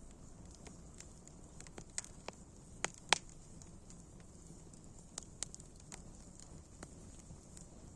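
Wood fire burning with a steady low rush and irregular sharp crackles and pops, the loudest pop about three seconds in.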